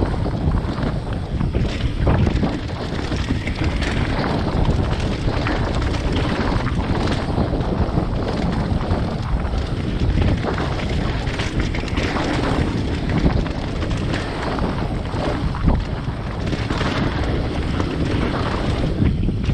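Mountain bike riding a dirt singletrack, with wind rushing over the microphone in a steady roar and frequent small knocks and rattles from the bike over bumps.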